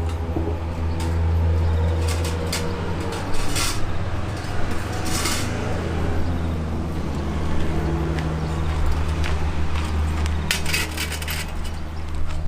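Clinks and knocks of metal cookware and utensils being handled while setting up to grill, in scattered clusters, over a steady low hum.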